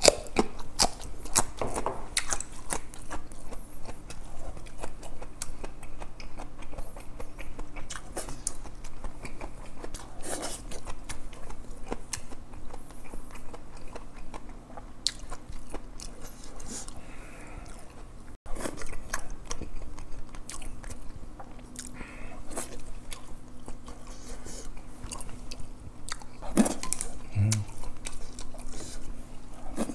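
Close-up chewing and crunching of a person eating, starting with bites into a raw green chili pepper: many short crisp crackles and smacks scattered throughout.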